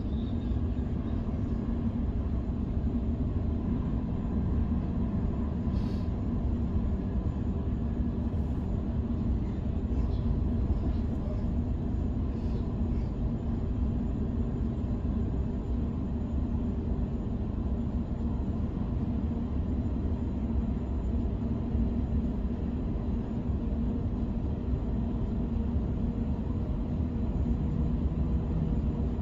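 Inside a moving electric suburban train: a steady low rumble of wheels on the rails and the running gear, with a faint steady whine above it. One brief click about six seconds in.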